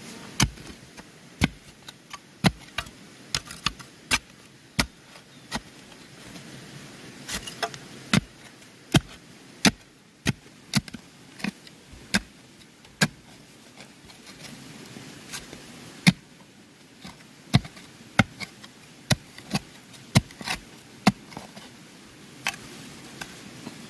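Repeated sharp hand-tool strikes on bamboo, irregular at about one or two a second, with a short lull about two-thirds of the way through.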